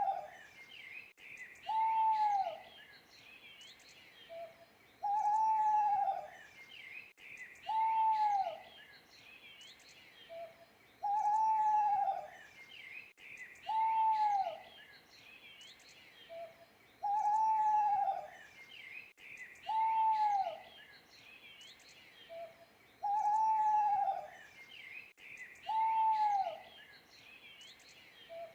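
Owl hooting: one long, arched hoot about every three seconds in an even repeating pattern, every other hoot led by a short soft note, with other birds chirping faintly higher up.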